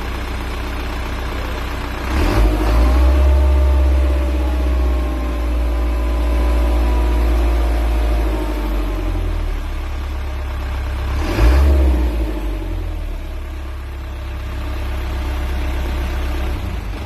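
Isuzu NPR truck engine running hot. It is revved up about two seconds in and slowly falls back toward idle, then gets a second short blip of the throttle about eleven seconds in.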